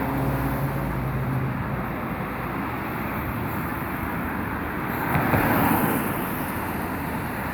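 Street traffic. A vehicle's engine hum fades out in the first second or two, and another vehicle passes, louder, about five seconds in.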